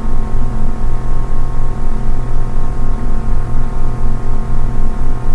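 Background ambient music: a sustained drone of several held tones with strong low notes, swelling and fading in a steady pulse.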